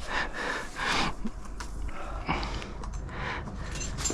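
A person breathing hard from exertion, a few loud breaths about a second apart.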